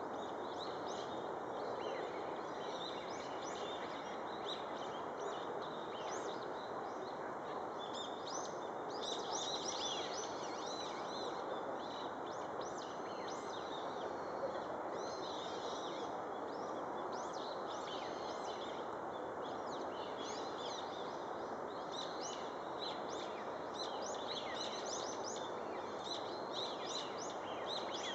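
Small birds chirping with many short, quick high notes over a steady rushing background noise.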